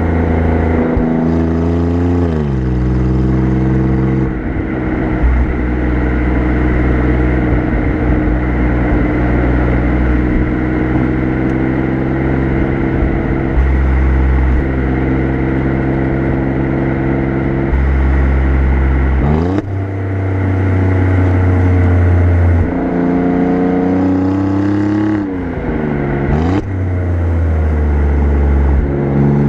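Exhaust note of an Alfa Romeo Giulia Quadrifoglio's twin-turbo V6, heard close to the tailpipes from the rear bumper while driving. The engine note drops a few seconds in, holds steady for a long stretch, then jumps up sharply, falls and rises again near the end.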